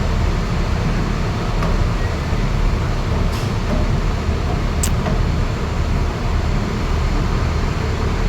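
Steady low rumble of a car ferry's engines while the ship docks, with two brief, sharp high-pitched sounds about three and five seconds in.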